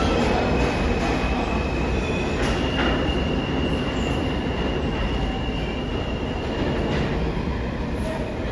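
New York City subway train running through the station, its wheels squealing with a thin, steady high tone over the rumble of the cars. The squeal shifts pitch slightly a few seconds in and fades near the end.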